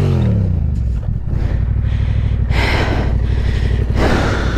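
Yamaha Ténéré 700's parallel-twin engine running steadily at low revs with a fast, even pulse, crossed by two short rushes of noise, one about two and a half seconds in and one near the end.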